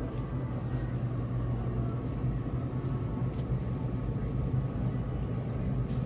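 Steady low machine hum of grocery-store equipment, with a low rumble under it and a couple of faint clicks.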